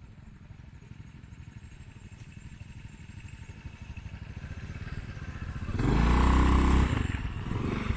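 Motorcycle engine running at low revs with an even pulse, growing steadily louder, then loud for about a second near the end as it revs up and eases off again.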